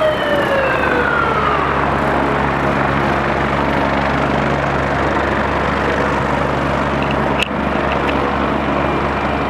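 A siren winds down in pitch and dies out about a second in, leaving the steady, loud running noise of a medical helicopter idling on the ground for a hot load, its rotors kept turning while the patient is loaded. A brief sharp click comes near the end.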